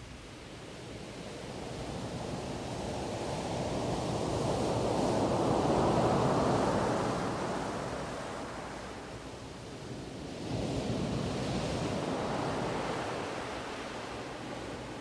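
Ocean waves washing in: one slow swell builds to its loudest about six seconds in and ebbs away, then a second wave comes in sharply about ten seconds in and slowly fades.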